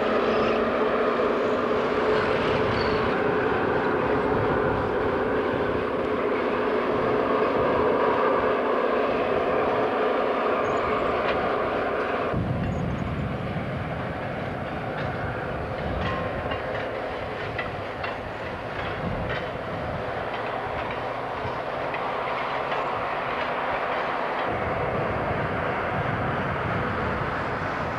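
EMD FP7A diesel locomotive running past with a steady engine drone. About twelve seconds in, the engine tones give way to the rumble of passenger cars rolling by, their wheels clicking over rail joints, and the sound eases as the train moves away.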